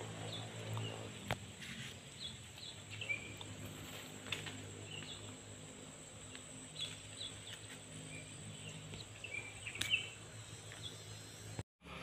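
Outdoor ambience: small birds giving short, high chirps here and there, over a faint, steady low hum.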